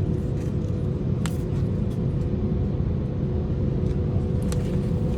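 Airliner cabin noise: the steady low drone of the aircraft in flight, with a steady hum over it and a few faint clicks.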